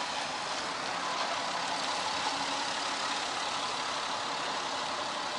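Steady street traffic noise: a motor vehicle's engine running under an even hiss, with no sudden sounds.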